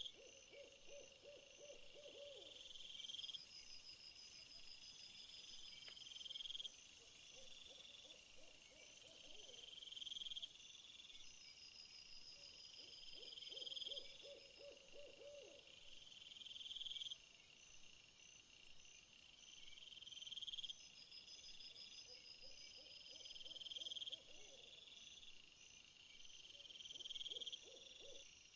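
Faint nature ambience of insects calling, their high calls repeating about every two seconds, with a lower trilling call coming back every four to six seconds.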